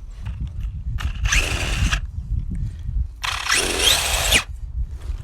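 Electric motor and drivetrain of a Traxxas Slash radio-controlled short-course truck whining in two bursts of throttle, each about a second long. The pitch climbs in the second burst. A steady low rumble runs underneath.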